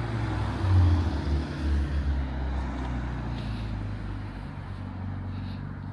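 Car engine with a deep, low exhaust note. It swells a little under a second in and again around two seconds in, then settles and fades.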